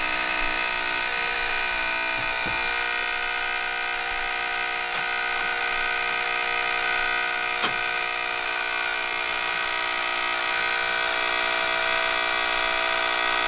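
Hydronic zone control box's fault alarm buzzing steadily, an even, unbroken buzz with many overtones and two faint ticks partway through. It signals an error on zone 1, whose zone valve is not opening and closing; the technician traces this to a failed relay on the box's board.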